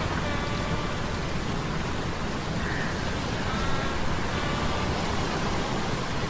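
Ambient mix of sea storm sound effects, steady rain-like noise over a low rumble, layered with faint humming tones from metal gears that recur every few seconds.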